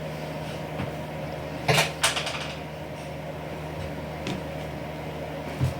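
Two sharp household knocks a third of a second apart, like a cupboard door banging shut, with a few fainter knocks later, over a steady low hum.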